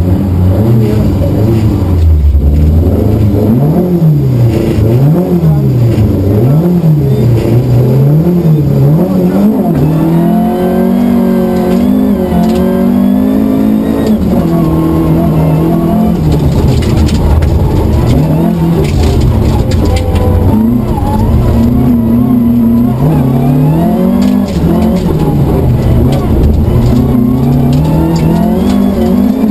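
Rally car engine at full effort, heard from inside the cabin, its revs climbing and dropping back over and over as it is driven hard through the gears.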